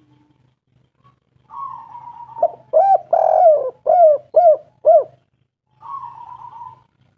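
Spotted dove cooing: a softer drawn-out note, then a loud run of about five short rising-and-falling coos, then another softer drawn-out note near the end.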